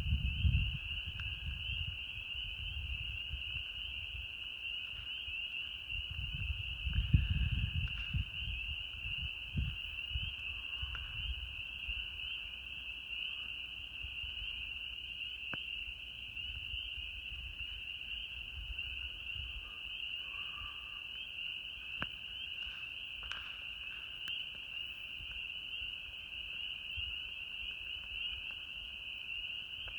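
A dense chorus of spring frogs calling steadily in a high, continuous ring. A few sharp pops from the campfire come through.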